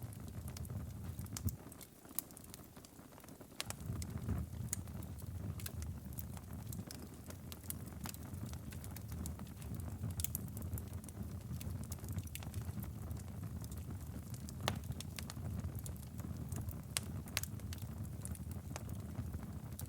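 Wood fire burning in a fireplace: irregular sharp crackles and pops from the burning logs over a low, steady rumble of flame. About two seconds in, the low rumble drops away for a couple of seconds, leaving only the crackles, then returns.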